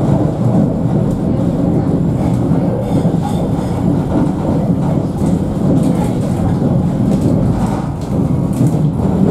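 Alstom Citadis tram in motion, heard from inside the car: a steady low rumble of steel wheels on the rails and the running gear, with a few faint clicks and knocks from the track.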